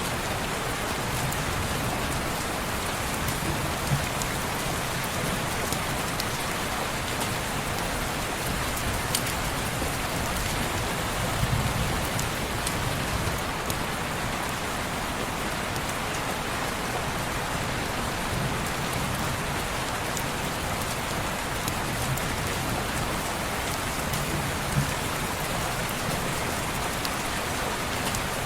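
Steady rain falling on window glass, an even hiss with a few sharp ticks scattered through it.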